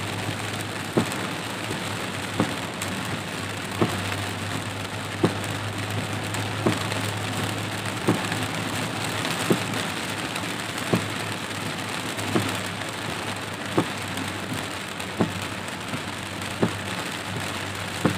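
Heavy rain drumming on a car's roof and windscreen, heard from inside the cabin, over a steady low hum of the car on the road. A windscreen wiper knocks once at each sweep, about every second and a half.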